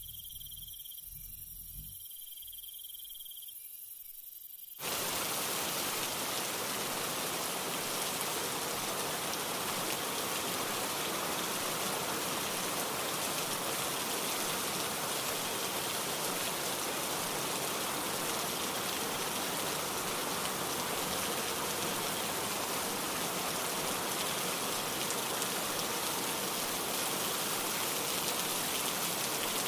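Crickets trilling steadily, cut off abruptly about five seconds in by steady rain falling, which continues evenly from then on.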